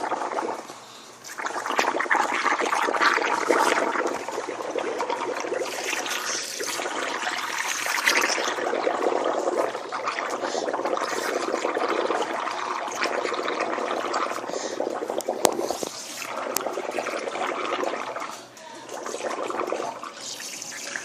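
Air blown through a straw into a bowl of soapy water, bubbling and gurgling steadily as foam builds up. There are short breaks about a second in and near the end.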